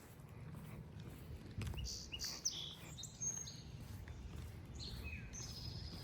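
Songbirds chirping: a quick series of short, high calls about two seconds in and another bout near the end, over a steady low outdoor rumble.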